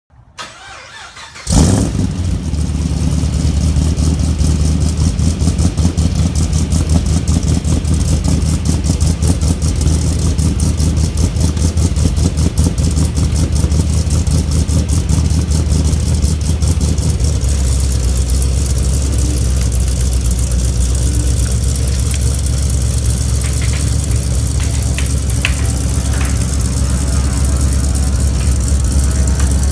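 Chevrolet Camaro ZL1's supercharged 6.2-litre V8 starting about a second and a half in, then idling fast and steady. About seventeen seconds in, the idle drops a little lower.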